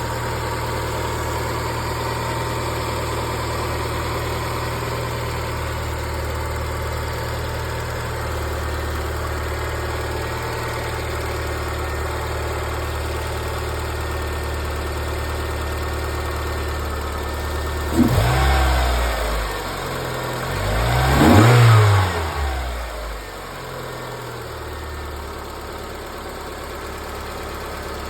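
Car engine idling steadily in the engine bay, then revved twice about two-thirds of the way through, the second rev the louder, before settling back to idle. No belt squeal stands out, which the owner takes to mean the engine bay is not where the noise heard while driving comes from.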